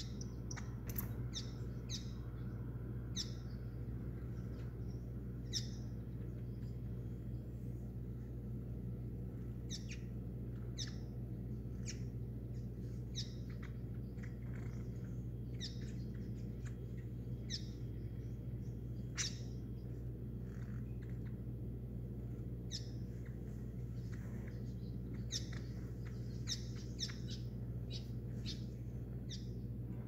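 Small finch-like birds chirping, short high chirps scattered irregularly, sometimes in quick runs, over a steady low hum.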